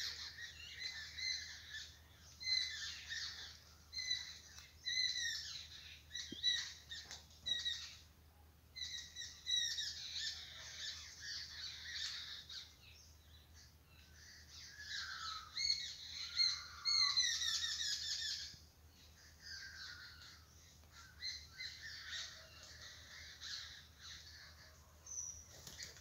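Several birds chirping and calling in a quick series of short notes, with brief lulls and a loud, dense burst of calls about two-thirds of the way in.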